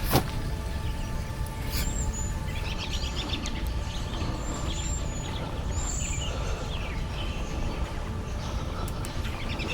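Woodland songbirds calling: several short, high arched whistles around two, five and six seconds in, and chattering trills around three to four seconds in and again near the end, over a steady low rumble. A single sharp click comes right at the start.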